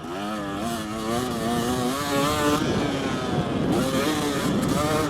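KTM motocross bike's engine revving up and down as it is ridden, its pitch rising and falling with the throttle several times.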